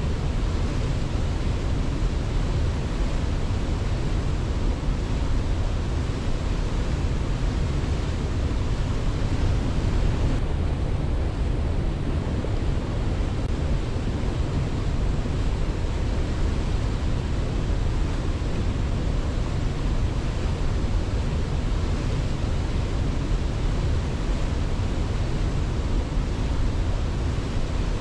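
Waterfall: a steady rushing of falling water, heaviest in the low end, with no surges or breaks.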